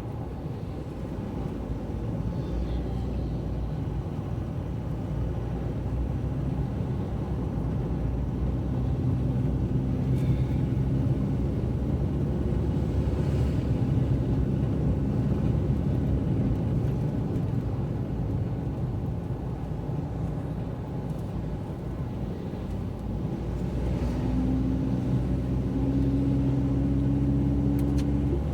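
Car driving along, a steady low engine hum and road rumble. About three quarters of the way through a higher engine tone comes in and slowly rises in pitch.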